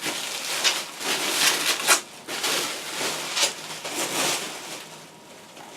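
Packaging rustling and crinkling in irregular bursts as the drone is unwrapped and handled, with a few sharper crackles, dying down near the end.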